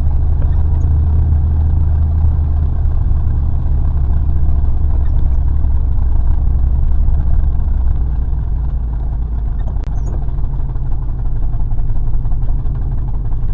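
An old pickup truck's engine heard from inside the cab, running with a steady low drone that drops slightly after about eight seconds. The engine has dead cylinders, which the owner says gives it a little cutout instead of running smooth.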